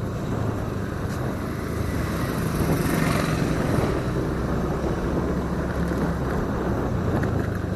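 Motorcycle engine running steadily while riding, with rushing wind and road noise over it.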